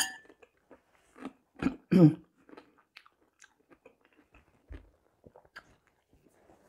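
Close-up eating sounds: chewing and small mouth clicks while eating chicken soup with salad and bread. A sharp clink at the very start, a spoon against the porcelain bowl, and two louder short mouth sounds about two seconds in.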